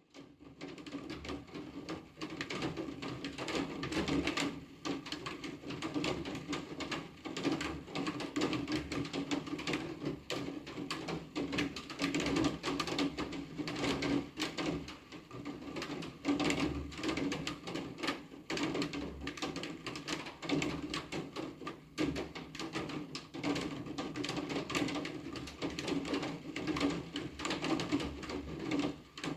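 Steady rain pattering on a hard surface: a dense run of irregular drop ticks, fading in at the very start.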